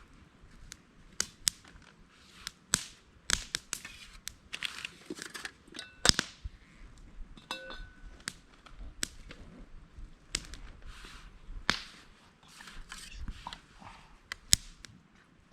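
Irregular sharp clicks and knocks with short rustling between them, as of objects being handled, with a brief rattle about eight seconds in.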